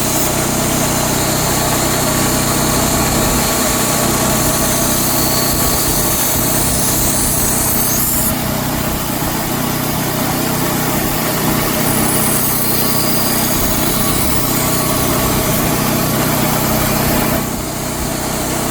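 Power grinder running with a steel knife blade held against it, grinding the blade's edge bevel, as a steady loud grinding whir. It dips briefly near the end as the blade comes off.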